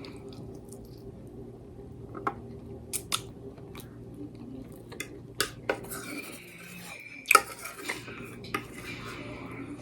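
Fork and knife clinking and scraping against a plate, about eight sharp clicks, the loudest a little past seven seconds in.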